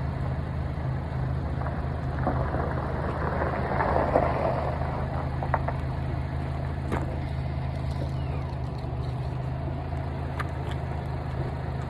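Engine idling steadily, with a few faint clicks and a brief scuffing noise about four seconds in.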